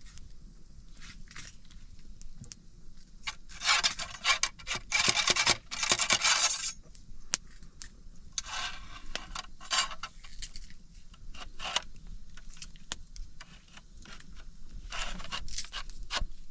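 Rattling, clinking and scraping of small hard objects being handled, in three bursts: the longest and loudest about four to six seconds in, a shorter one around nine seconds, and another near the end, with scattered clicks between them.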